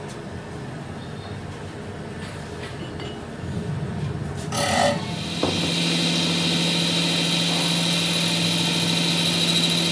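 A workshop power tool or machine starts about halfway through and runs steadily with a low hum and a high whine, just after a short loud rasping scrape.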